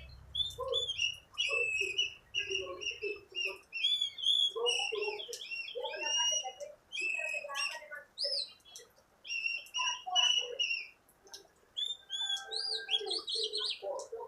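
Oriental magpie-robin (kacer) singing in full voice: a rapid, varied run of clear whistled notes, slurs and chirps.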